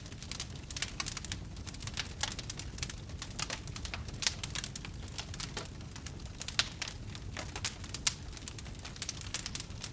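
Wood campfire burning, with irregular crackles and occasional sharper pops over a low steady rumble of flame.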